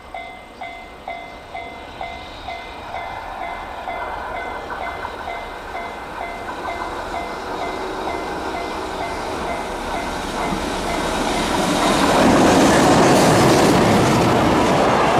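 A Japanese level-crossing bell ringing about twice a second, soon drowned out as a freight train hauled by an EH500 electric locomotive approaches. The train's rumble and wheel clatter build steadily and become loud about twelve seconds in as it passes close by.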